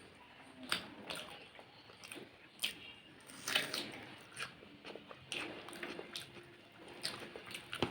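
A person chewing and eating chicken curry with roti and rice, with irregular short mouth clicks and smacks.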